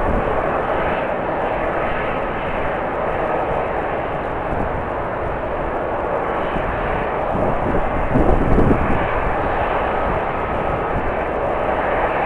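Steady jet engine noise of an airliner, with strong wind gusts buffeting the microphone, the biggest gust about eight seconds in.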